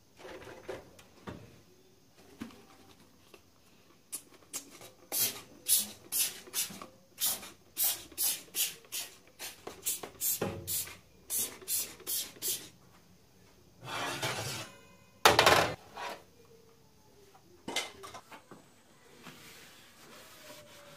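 Rhythmic rasping strokes by hand, about two a second for several seconds, followed by two longer strokes.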